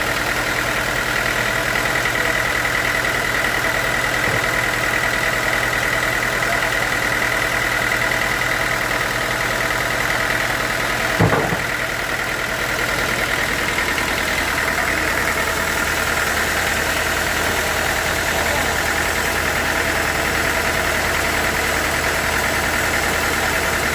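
Sawmill machinery running steadily with a constant high-pitched whine over a low engine hum. About eleven seconds in there is one short knock.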